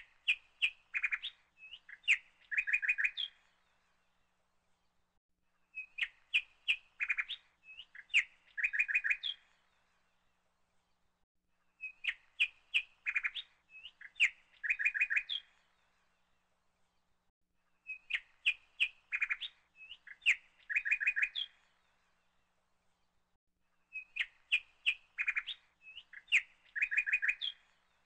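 A burst of bird chirps and twitters about four seconds long, repeated exactly the same every six seconds, five times over, like a looped recording, with silence between and no road or engine noise.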